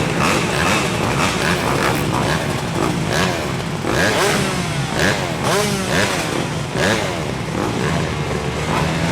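Several motocross bikes' engines revving hard together, their pitches rising and falling over one another.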